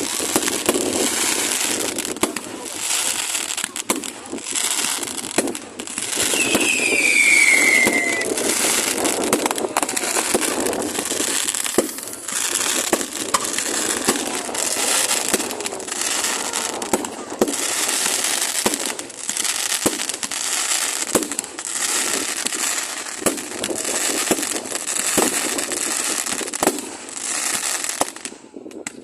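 Fireworks going off without a break: a dense run of bangs over continuous crackling, with one falling whistle about six to eight seconds in. The sound drops away suddenly near the end.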